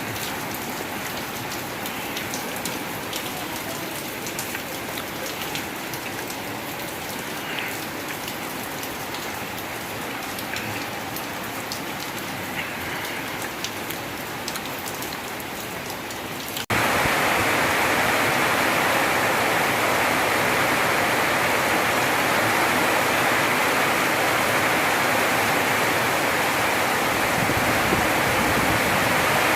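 Rain falling, with single drops ticking through a steady patter. About halfway through it cuts abruptly to heavier, louder, denser rain, an even hiss.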